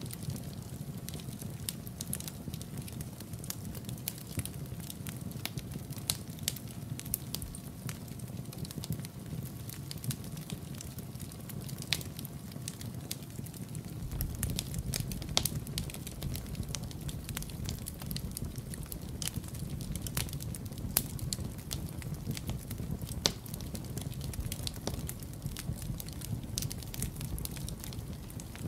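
Wood fire crackling in a fireplace, with frequent sharp pops and snaps over a low steady rumble that grows a little stronger about halfway through.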